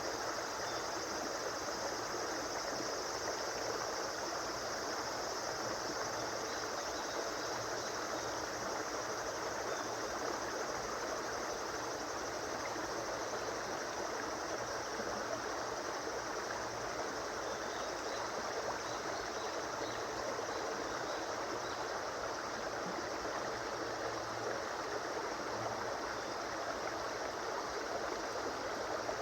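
River water flowing steadily: an even, unbroken rush of a stream.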